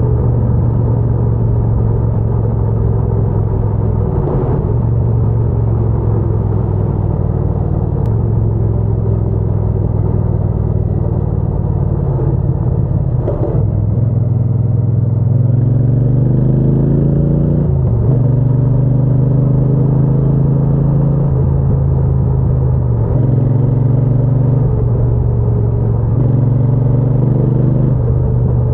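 Triumph Bonneville T120's 1200 cc parallel-twin engine running while riding, mostly steady. Past the middle its pitch climbs for a few seconds, then drops back sharply as if at a gear change.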